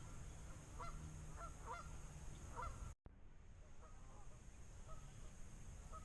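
Distant Canada geese honking, a few short scattered calls at a time. The sound drops out for an instant about halfway.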